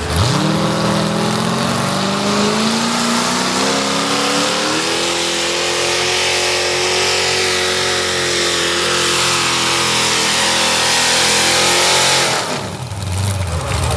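Pulling tractor's engine revving up and held at full throttle during a pull, its pitch climbing over the first few seconds and staying high, then falling away quickly about twelve seconds in as the throttle is cut.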